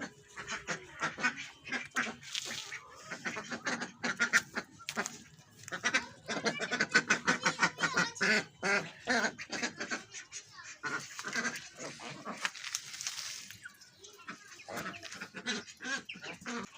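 A flock of ducks quacking, with many short calls overlapping without a break.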